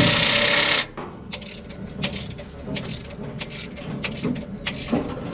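A power tool runs loudly and steadily, then cuts off about a second in. After that come irregular metallic clicks and clinks of hand tools and parts being handled.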